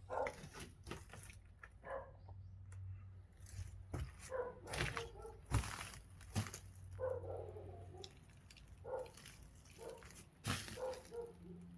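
A dog barking repeatedly in short, irregular barks.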